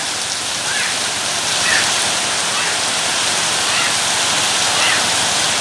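Heavy rain pouring down steadily, a dense even hiss, with a few faint short high-pitched calls over it.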